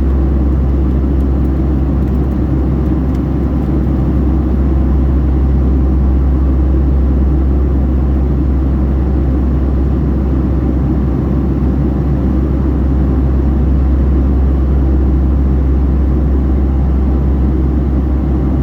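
Boeing 757-300 cabin noise: a steady, unchanging low rumble of jet engines and airflow, heard from a window seat.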